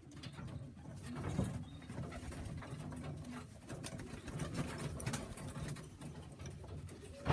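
Tippler pigeons cooing low and repeatedly, with scuffling and small clicks of birds moving. A louder sharp knock or clatter comes at the very end.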